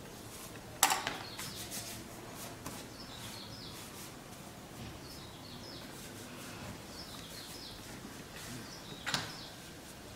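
Faint chirps of small birds, short high notes in little groups every couple of seconds, over a steady background hiss. Two sharp clicks, about a second in and again near the end, are the loudest sounds.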